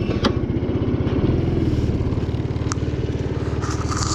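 GY6 50cc four-stroke single-cylinder scooter engine running steadily at low revs, a rapid even putter.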